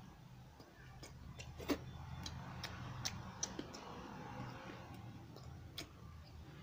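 A person chewing a mouthful of chicken and roti with wet mouth clicks and lip smacks, about two a second, the loudest about a second and a half in, over a low steady hum.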